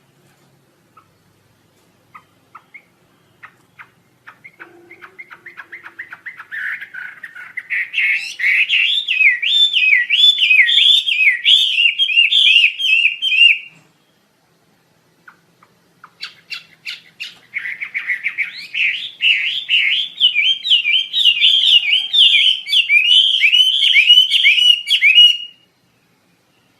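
Wambi Asia songbird singing. Chirps speed up and grow louder over several seconds into a long run of fast, loud, sweeping notes that breaks off suddenly. After a pause of about two seconds, a second song builds more quickly and runs about eight seconds before stopping.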